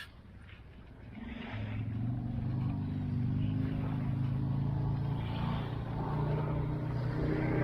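A motor engine's steady drone that rises in about a second in and then holds.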